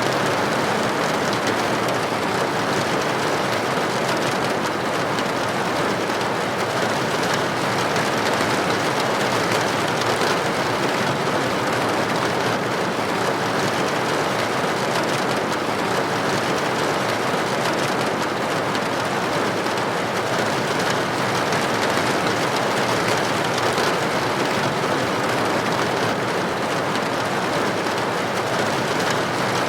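Rain falling against a building window: a steady, even hiss of many droplets that does not change.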